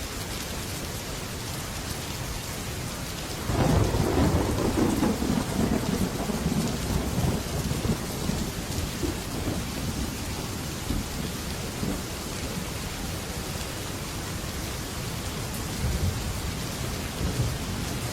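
Heavy rain falling steadily on a metal roof, with a sudden thunderclap about three and a half seconds in that rumbles and fades over several seconds; two fainter rumbles of thunder near the end.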